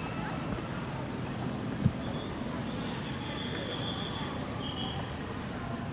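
Street traffic noise with a steady low engine hum, and a single sharp knock about two seconds in. A faint high whine sounds for a couple of seconds in the middle.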